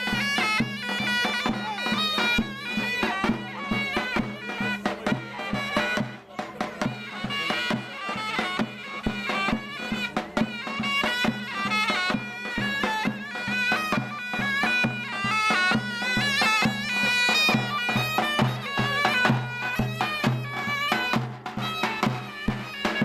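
Turkish folk music on zurna and davul: a shrill double-reed pipe plays a fast, ornamented melody over a held low note, with regular bass drum beats underneath.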